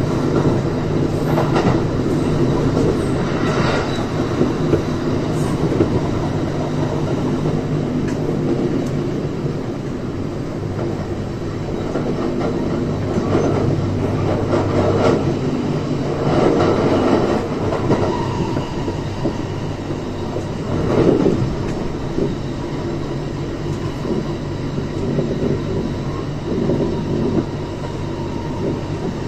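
Running sound of a Kintetsu 3220 series electric train at steady speed, heard from inside the car: a steady hum from the traction equipment and wheels, with the wheels knocking over rail joints now and then.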